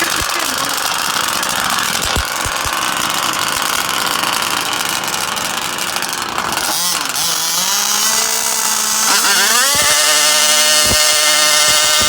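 Small two-stroke engines of gas-powered RC drag cars running with a rough buzz. About eight seconds in, an engine revs up and then holds a steady high-pitched buzz at high throttle.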